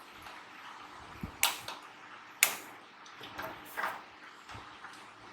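A few sharp clicks and light knocks of small hard parts being handled during repair work, the two loudest about a second apart near the middle, with fainter taps after.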